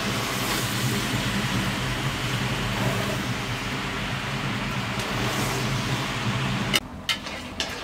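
Steady hiss of chopped mushrooms and tomatoes frying in a metal pot as they are stirred with a spoon. About seven seconds in it cuts off abruptly to a quieter background with a few sharp clicks.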